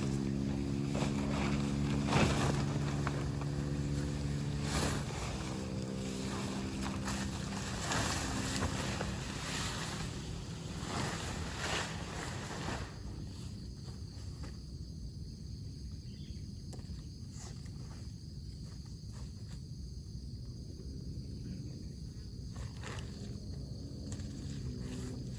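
A motor running with a steady hum that steps in pitch a few times, with scattered clicks, then stops about halfway through, leaving a low rumble.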